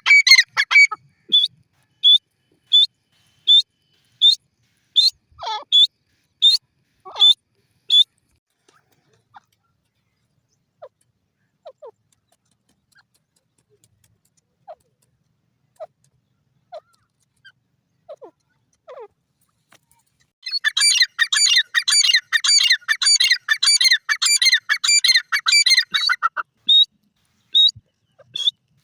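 Francolins (teetar) calling: short sharp notes repeated about once a second, then after a lull with a few faint calls, a dense burst of rapid chattering calls lasting about six seconds, and the repeated short notes again near the end.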